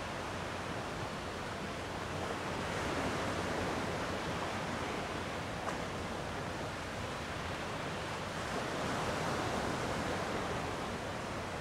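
Gentle sea waves washing against the shore in a steady hiss, swelling slightly twice.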